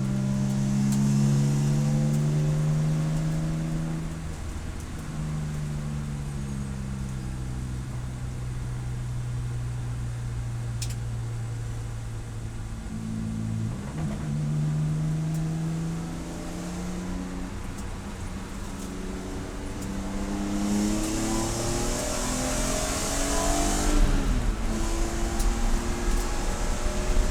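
Race car engine running hard, its pitch climbing and dropping in steps as the car is driven through the gears. It climbs again near the end and then drops sharply at a shift.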